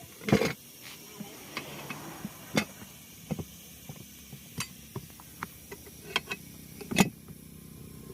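Irregular metallic clinks and knocks of hand tools and metal parts being handled, a dozen or so sharp taps spread out, the loudest about seven seconds in.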